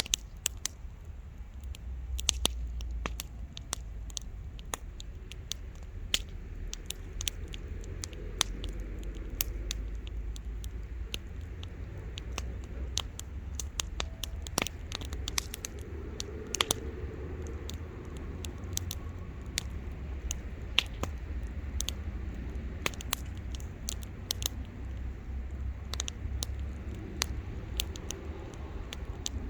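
Wood bonfire crackling: frequent, irregular sharp pops and snaps over a steady low rumble.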